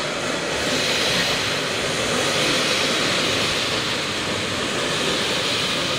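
Limited express electric train pulling into the platform and running past close by as it arrives: a steady, loud rush of wheels on the rails and moving air.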